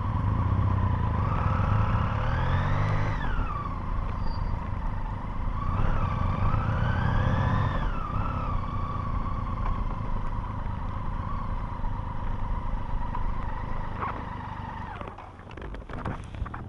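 Motorcycle engine revving up twice, its pitch climbing and then dropping back each time, then running steadily. Near the end it quietens, with a few sharp clicks.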